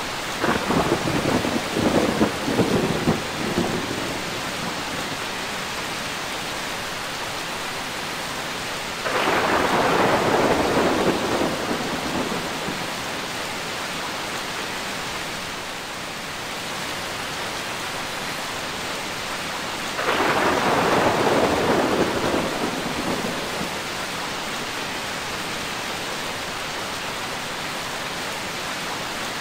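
Steady rain with three rolls of thunder, about ten seconds apart, each rumbling for three or four seconds before fading back into the rain.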